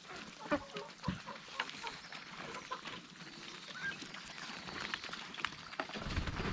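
Domestic ducks feeding, with short soft calls now and then among scattered quick clicks and taps.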